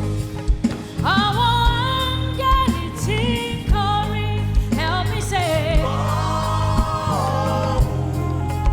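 Gospel-style worship music: a lead voice sings held notes with vibrato and slides between pitches, over bass and drums.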